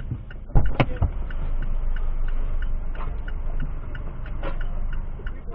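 A car's turn-signal relay ticking evenly, about three clicks a second, over the low rumble of the car. Two sharp knocks come about half a second in.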